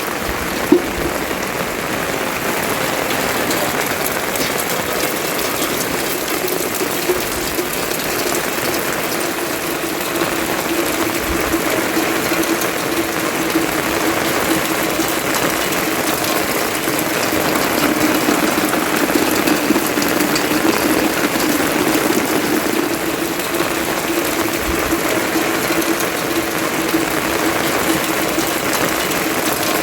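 Steady rain falling, with one sharp knock about a second in.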